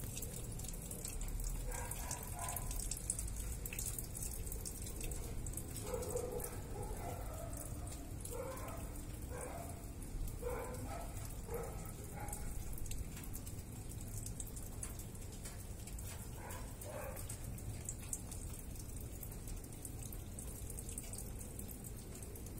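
Rain falling in a thunderstorm, with drops and drips ticking close by over a steady low rumble. A few clusters of short mid-pitched sounds come through now and then.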